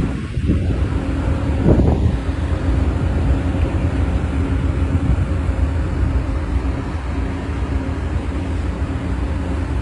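Passenger train cars rolling past close by: a steady low rumble of wheels on the rails, with a brief louder swell about two seconds in.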